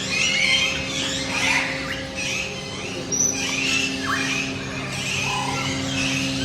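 Many birds calling and chirping over one another, with some harsh squawks, above a steady low hum.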